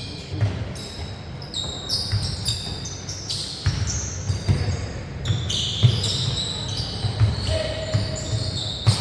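Basketball game play: a ball bouncing and thudding on a hardwood gym floor several times a second at an irregular pace, mixed with short high-pitched squeaks.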